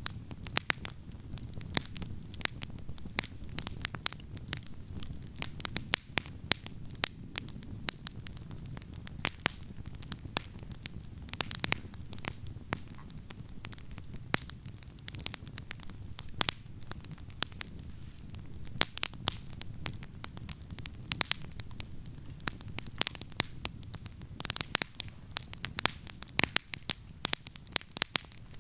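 Wood campfire burning and crackling: many sharp, irregular pops and snaps over a steady low rush of flame.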